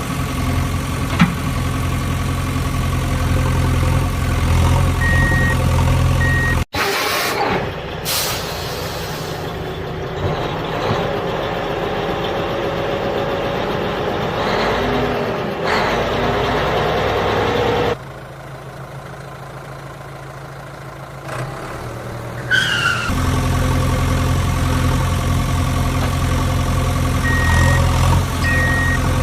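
Steady vehicle engine running with pairs of short high beeps, cut off abruptly a few seconds in. A noisier, changing vehicle sound follows, then a quieter patch, and the steady engine with beeps returns near the end.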